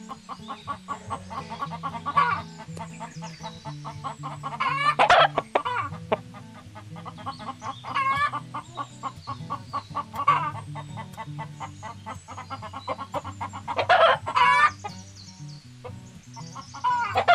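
Chickens clucking over background music with a slow, stepping bass line. A few louder calls stand out, about five seconds in and again around fourteen seconds.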